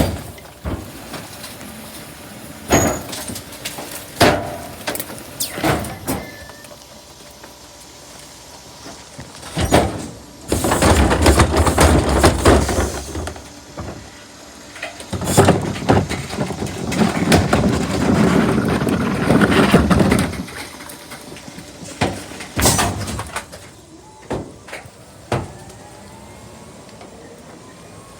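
Garbage truck at work: the engine revs up in two long stretches, with repeated bangs and knocks in between.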